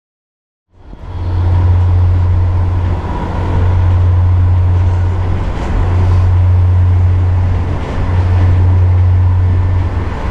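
Passenger train running, heard from inside the carriage: a loud, steady low rumble with a faint steady whine, starting abruptly under a second in.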